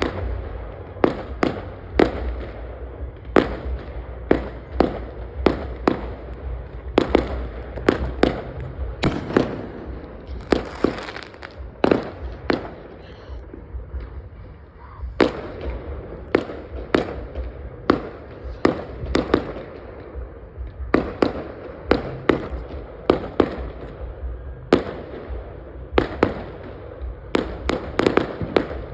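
Fireworks exploding in an uneven series of sharp bangs, about one to two a second, each with a short echoing tail, over a steady low rumble, with a brief crackling hiss about ten seconds in.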